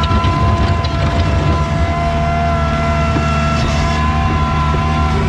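Bobcat skid steer engine running, with a steady high whine over it; the engine settles to an even speed about two seconds in.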